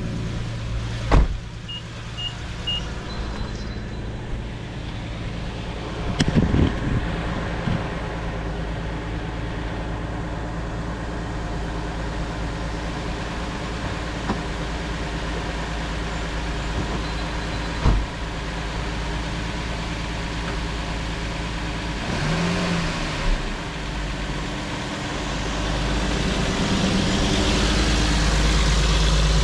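A 2012 Infiniti G37S's 3.7-litre V6 idling steadily shortly after a cold start, with a few sharp knocks along the way. The engine grows louder over the last few seconds.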